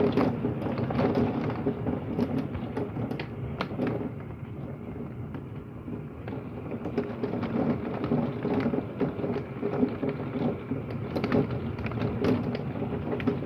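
Heavy rain with marble-sized hail pelting down during a severe thunderstorm, heard muffled through a window: a dense hiss of rain full of sharp hailstone ticks. It eases for a few seconds about four seconds in, then builds again.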